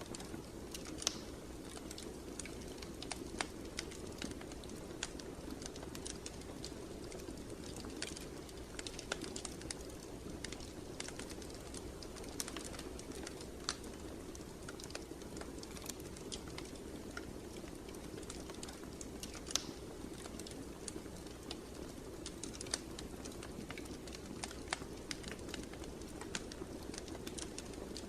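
Wood fire burning in a fireplace: a steady low rush of flame with scattered, irregular crackles and pops.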